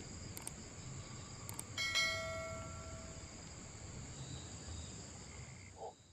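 Low background hum with a faint high whine, and a single ringing, bell-like tone about two seconds in that fades out over a second or so.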